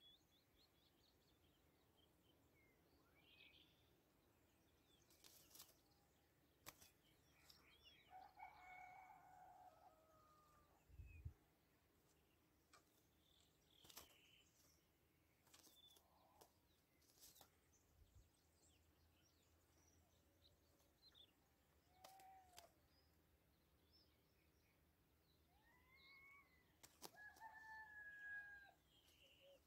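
Faint bird calls: scattered short chirps, with longer, clearer calls about eight seconds in and again near the end. A few sharp clicks and a soft thump about eleven seconds in.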